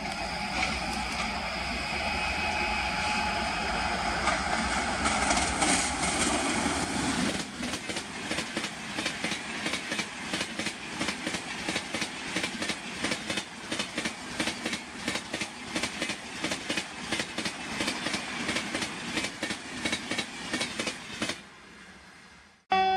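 High-speed Indian express passenger train passing close by at about 130 km/h. For the first seven seconds there is a heavy rumble with steady tones as the locomotive and leading coaches go by, then a fast, even clatter of coach wheels over the rail joints that stops abruptly near the end.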